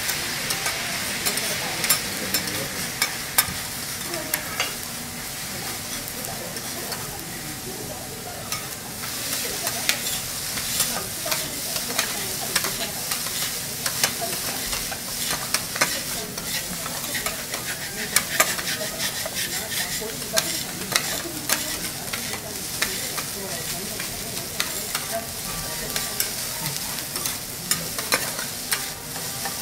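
Fried rice with egg and beef sizzling on a steel teppanyaki griddle while two metal spatulas chop, toss and scrape it. The sizzle is a steady hiss under frequent sharp clicks of the spatula edges striking the plate.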